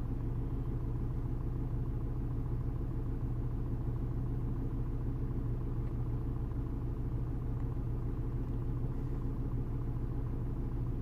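Nissan Pathfinder's engine idling steadily, heard from inside the cabin as an even low hum.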